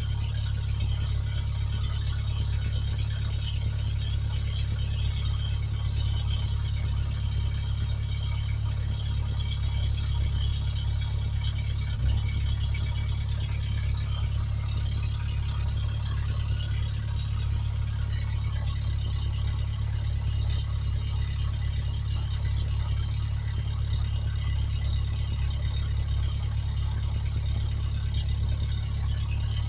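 A 1991 Ford Ranger pickup's engine idling steadily, with a single light knock about twelve seconds in.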